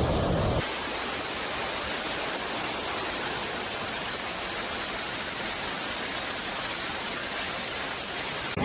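A steady, even hiss of water, as from heavy rain or rushing floodwater, starting about half a second in and cutting off suddenly at the end.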